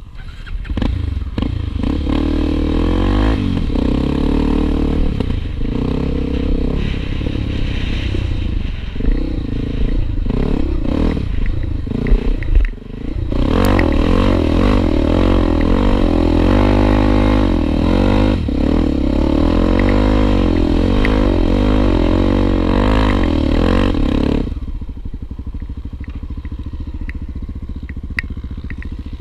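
Honda XR250 Tornado trail motorcycle's single-cylinder four-stroke engine revving up and down under load. Its pitch rises and falls repeatedly. It dips briefly about halfway through, then drops to a quieter steady running sound for the last few seconds.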